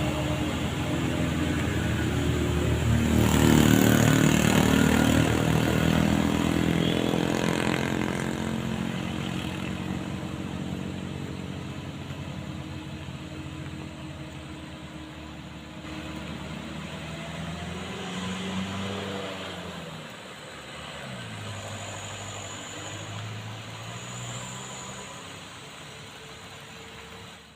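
Truck engine running under load, loudest a few seconds in and then slowly fading; later its pitch rises and falls as it revs.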